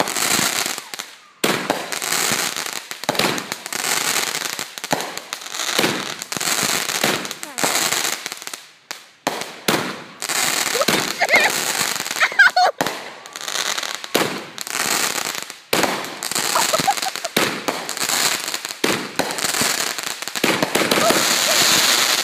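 Fireworks and firecrackers going off close by: dense strings of sharp bangs and crackles, nearly continuous, with a few short lulls.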